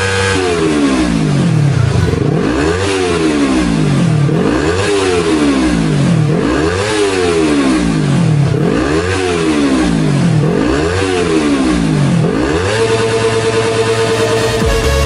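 Yamaha R25 parallel-twin motorcycle engine revved through a performance exhaust: the pitch rises and falls in repeated revs about every two seconds, then settles back to a steady idle near the end.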